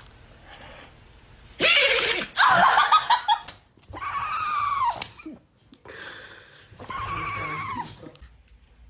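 Dog vocalising: a sharp burst about two seconds in, then several high, drawn-out whining cries about a second long each, two of them falling in pitch.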